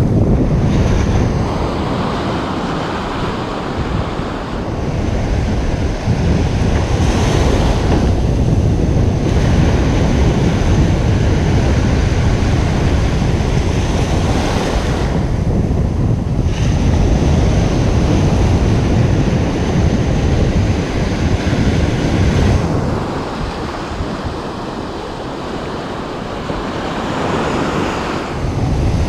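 Ocean surf breaking and washing onto a beach in slow swells, with wind rumbling on the microphone.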